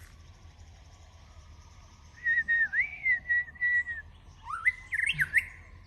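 White-rumped shama singing clear whistled phrases: a long, wavering note about two seconds in, then a run of quick rising whistles near the end.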